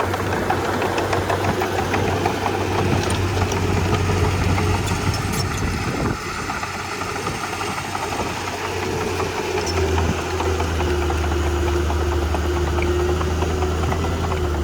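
Komatsu D31P bulldozer's diesel engine running under work, with a steady whine over it. The engine note drops about six seconds in and rises again near ten seconds.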